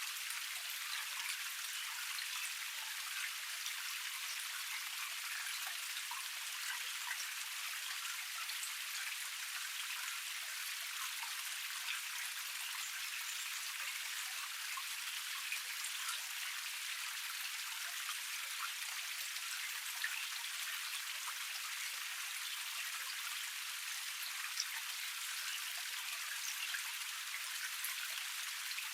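Water of a small forest cascade tier splashing and trickling over rocks: a steady, bright splashing hiss with no deep rumble, flecked with small droplet spatters.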